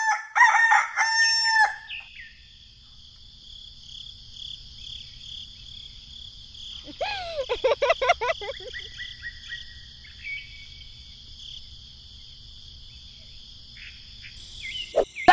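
A rooster crowing loudly at the start, with another wavering animal call about seven seconds in, over a steady high-pitched chirring background.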